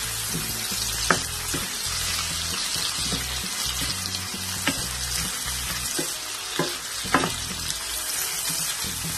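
Sliced bitter gourd and onions sizzling steadily as they fry on high heat in a pan, stirred with a wooden spatula that knocks against the pan a few times.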